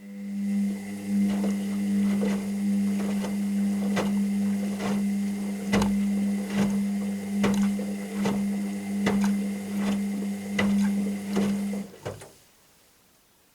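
Washing machine motor turning the drum: a steady hum with a faint high whine and repeated irregular knocks, starting suddenly and stopping abruptly about twelve seconds in.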